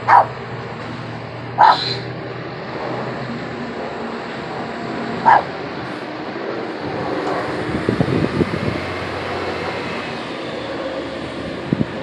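A dog barks three times, in short single barks, over the steady sound of a helicopter overhead. The helicopter grows louder in the second half.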